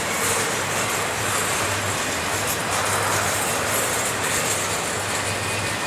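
Double-stack intermodal well cars rolling past at speed: a steady noise of steel wheels on the rails with faint rattling.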